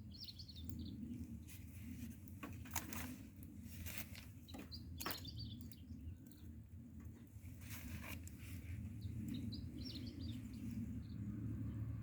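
Small birds chirping with short high calls over a steady low rumble, with a few sharp snaps from the crackling bonfire between about two and five seconds in.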